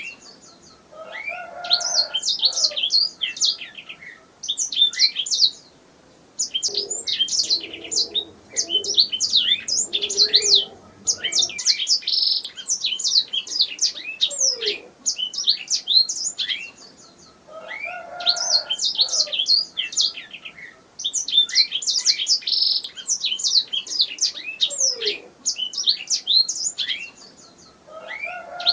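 Domestic canary singing: long phrases of rapid high chirps and trills, broken by short pauses every few seconds.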